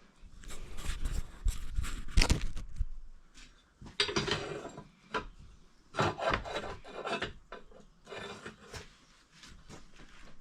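Hand file scraping along the edge of a steel mower blade in a series of uneven strokes with short pauses, touching up a blade's cutting edge.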